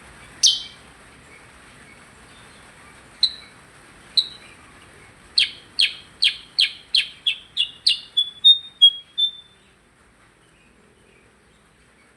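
Percang songbird calling: one sharp note, two more a few seconds later, then a fast run of about a dozen sharp chips that speeds up and ends in a few shorter, clearer notes.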